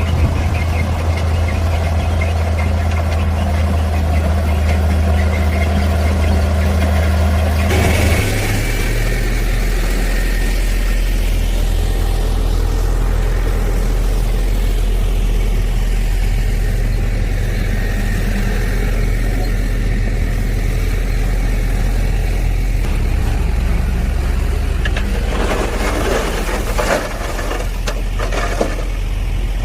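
Heavy diesel construction machine engine running steadily under load, its pitch changing about a third of the way in and again later, with a stretch of clattering near the end.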